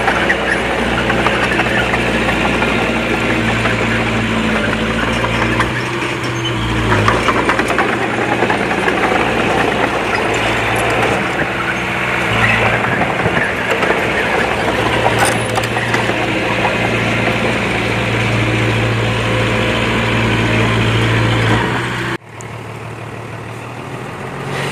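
Heavy diesel engine of earthmoving machinery running under changing load, its pitch rising and falling, with some clatter. The sound drops suddenly to a quieter engine level about 22 seconds in.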